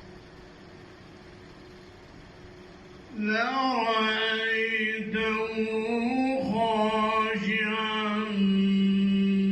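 A man's voice reciting the Quran in melodic tajweed style. After a pause of about three seconds it enters with a long, ornamented drawn-out vowel that glides up and down in pitch, then settles into a steady held note near the end.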